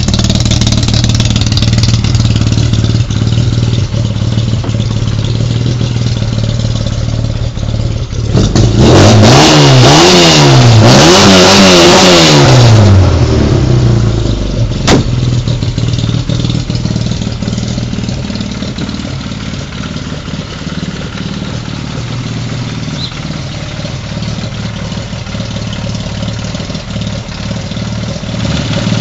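Classic Mini's 1380 A-series four-cylinder engine running steadily, then revved hard several times about a third of the way in, its pitch rising and falling with each blip, before it settles back to a quieter steady run. A single sharp click comes about halfway through.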